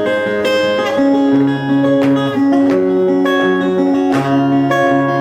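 Acoustic guitar strummed, its chords ringing on between strokes in an instrumental passage of the song.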